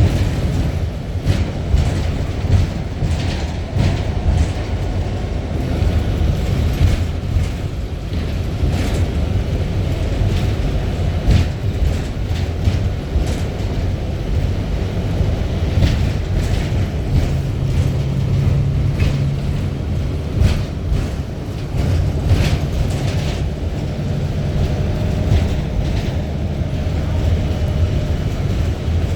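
Strong wind buffeting the microphone: a steady low rumble with frequent short hissing gusts.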